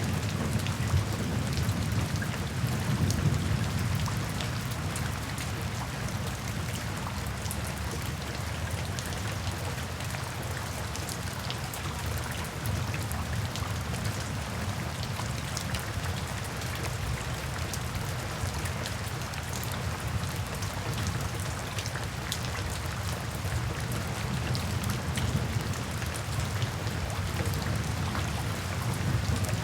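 Steady rainfall, an even hiss with many individual drops ticking on surfaces. A low rumble of thunder dies away over the first few seconds, leaving the rain alone.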